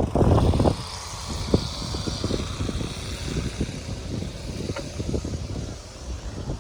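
Wind rushing over the microphone of a bike-mounted or handheld camera while cycling, with irregular knocks and rattles from the bicycle over the path; loudest in the first second.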